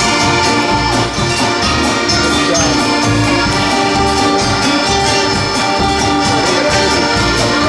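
Live band playing an instrumental passage of the song: held notes over a steady percussive beat.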